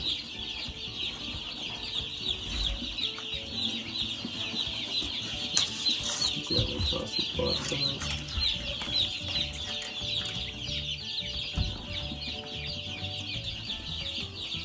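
About a hundred day-old Cornish Cross broiler chicks peeping together, a dense unbroken chorus of short high chirps. A few soft knocks and rustles sound about halfway through.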